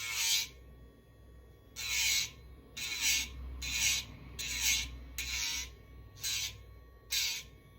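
Electric rotary dog-nail grinder running with a steady whine, pressed against a dog's nail in about eight short grinding passes; each touch brings a rasping hiss and a brief dip in the motor's pitch as it takes the load.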